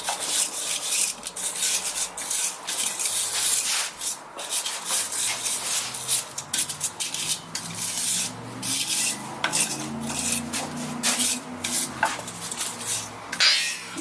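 Hand brush scrubbing back and forth on a metal suspension part, a long run of short rasping strokes with brief pauses, cleaning off rust and dirt before painting.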